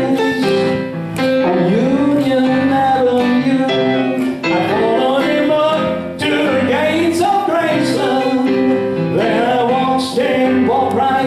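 A vocal group singing a song with instrumental accompaniment, voices moving between sliding phrases and held notes.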